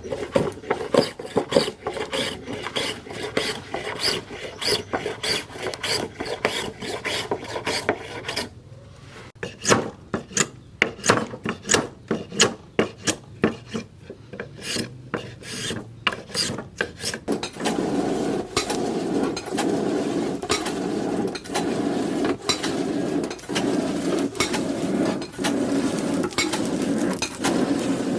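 A hand file rasping in repeated back-and-forth strokes, about two to three a second, while the blade is worked. It pauses briefly about eight seconds in and turns steadier and fuller in the second half.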